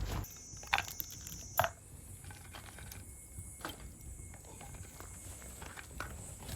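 Scattered sharp clicks and knocks, the loudest about a second and a half in, over a faint steady high insect trill.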